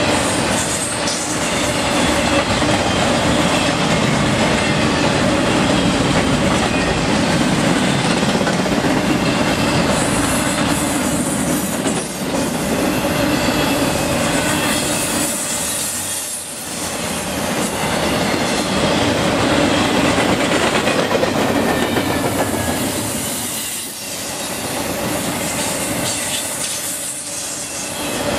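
Freight cars carrying highway trailers rolling past close by: a steady loud rumble of steel wheels on rail with a faint high squeal from the wheels. The level dips briefly a few times as gaps between cars go by.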